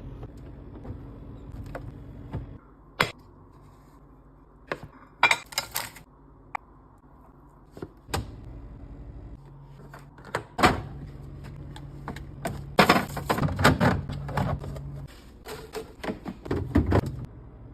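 Scattered clicks, knocks and clatters of food containers and packages being handled and set down, with a dense run of rattling near the end, over a low steady hum that comes and goes.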